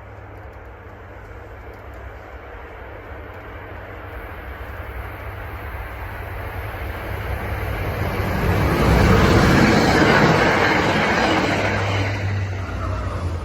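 MBTA commuter rail train approaching and passing: its rumble and wheel noise build steadily to a peak about nine seconds in, then ease off a little.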